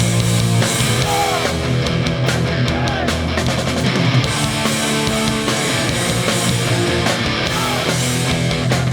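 Hardcore punk band playing live at full volume: distorted electric guitars and bass holding chords over steady, driving drums, with no vocals.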